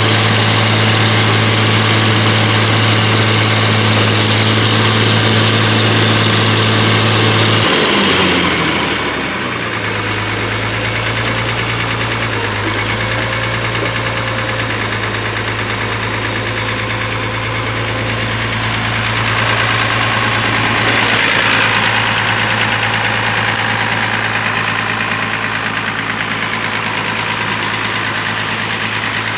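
Farmall 706 tractor's six-cylinder engine running steadily; about eight seconds in it is throttled back and its speed drops, then it idles on at the lower speed.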